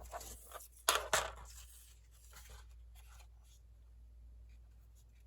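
Scored file-folder card being folded and creased with a bone folder: two short crackly scrapes about a second in, then faint rubbing and handling of the paper.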